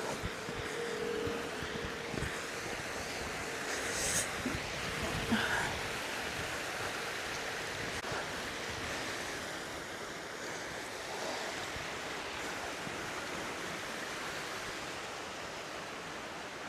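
Steady rushing water, an even hiss, with a few brief knocks and rustles between about two and five seconds in.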